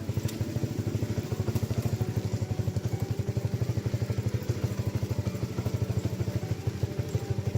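A small engine running steadily, with an even rapid chugging of about ten beats a second.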